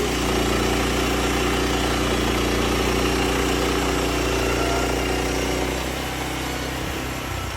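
Sawmill's engine running steadily with a hum, its sound easing off and dropping in level about six seconds in.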